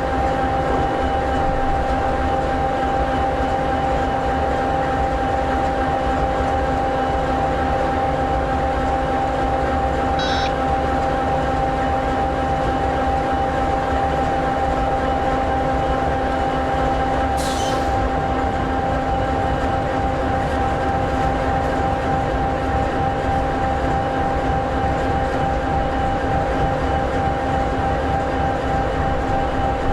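EMD 16-710G3B sixteen-cylinder two-stroke diesel of an SD60E locomotive idling steadily: a low rumble under a steady hum.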